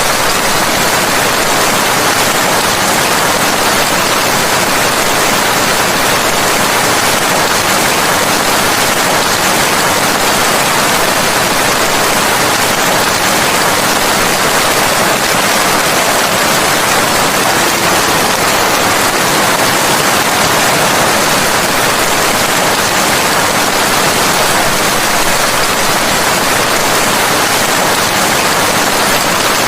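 Steady rain: a dense, even hiss with no separate drops, thunder or other events standing out.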